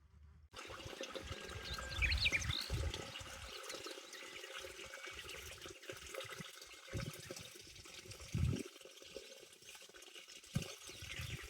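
Water of a small stream running steadily, with a few low knocks over it.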